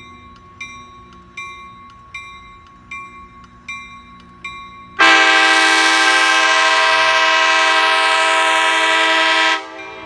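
A long, loud blast of the ACE locomotive's horn starting about halfway through and cutting off sharply some four and a half seconds later. Before and after it, a level-crossing bell dings steadily about once every 0.7 seconds.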